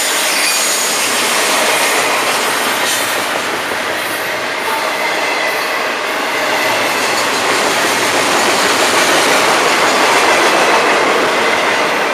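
Double-stack intermodal container well cars of a long freight train rolling past, their steel wheels on the rails making a loud, steady rolling noise.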